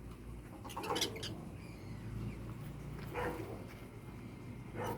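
Three short animal calls, each about two seconds apart, with fainter high chirps around them, from the pet birds and the kitten.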